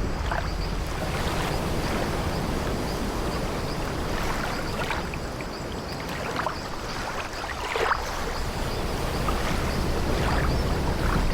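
Sea waves washing against an old wooden ship with a steady low rumble, and the ship's timbers creaking briefly every second or two, the loudest creak about eight seconds in.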